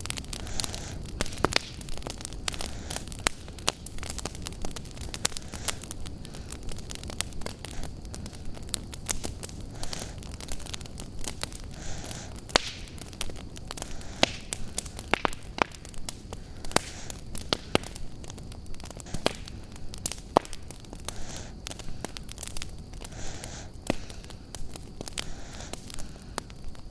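Wood fire crackling in a fireplace, with many sharp pops and snaps at irregular intervals over a steady low rumble of the flames.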